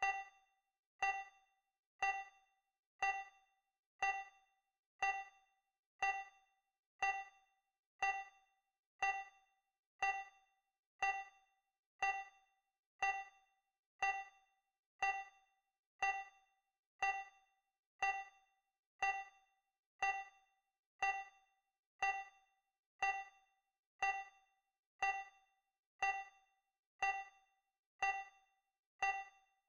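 Digital countdown timer sound effect: a short, bright ding once every second, each one fading away quickly.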